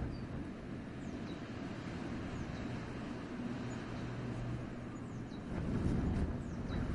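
Wind blowing through a winter forest as a steady low rumble, gusting louder about five and a half seconds in, with faint, short, high bird chirps now and then.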